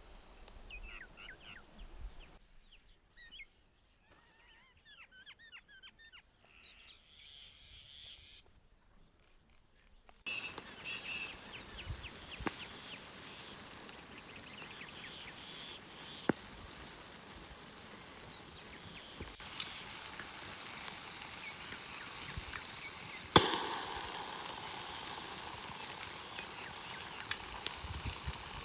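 Outdoor ambience with small birds chirping, broken by a few sharp cracks or knocks, the loudest about two-thirds of the way through. The background changes abruptly several times.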